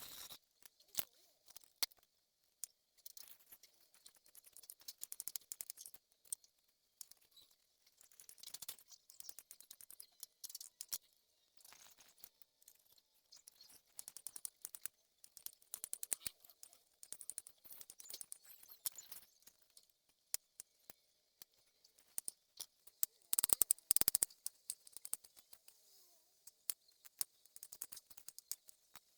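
Eating sounds: quiet, irregular crunching and little clicks of food being chewed and handled, with a louder run of crackling about 23 seconds in.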